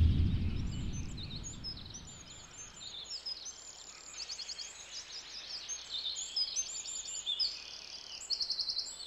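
The tail of a deep boom dies away over the first two seconds. Then several birds chirp and trill, with short repeated calls and a few quick trills.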